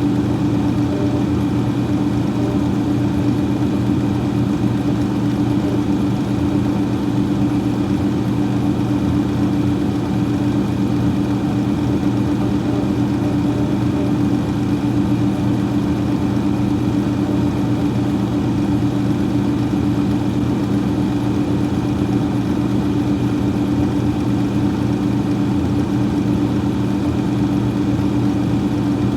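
Freezer fan running: a steady, even hum with a low drone and a faint higher whine, unchanging throughout.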